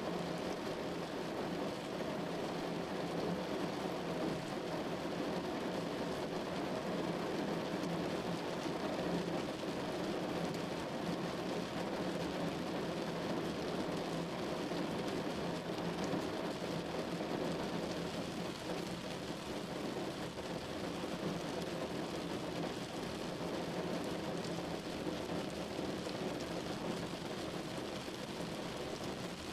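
Steady rain falling on a window pane, an even patter that holds at the same level throughout with no distinct thunderclaps.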